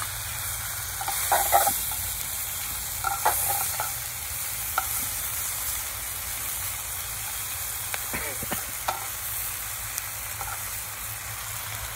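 Devilled chicken and vegetables sizzling in a clay pot while being stirred with a metal slotted spoon, which scrapes against the pot a few times.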